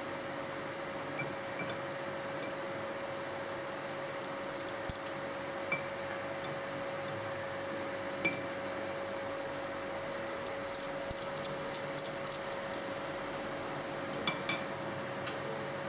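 Scattered light clicks and clinks of small hard parts being handled, a quick run of them about eleven seconds in and the loudest near the end, over a steady hiss with a faint steady hum.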